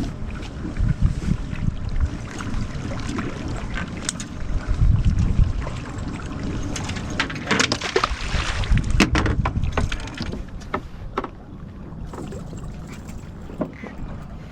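Wind buffeting the microphone in uneven low rumbles, with a run of sharp knocks and clicks from handling around the middle.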